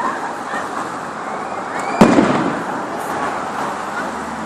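Fireworks display going off: one sharp bang about two seconds in, over a steady noisy background between bursts.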